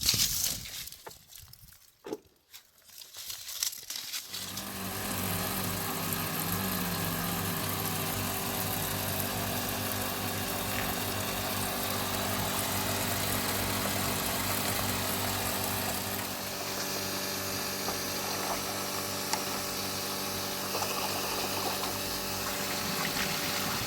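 A few scattered knocks, then from about four seconds in an engine runs steadily at an even pitch.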